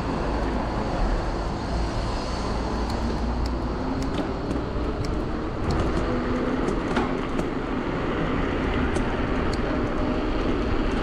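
Riding noise from an electric mountain bike moving through city traffic: steady low wind rumble on the microphone and tyre-on-road noise, with a few small clicks and a faint steady hum.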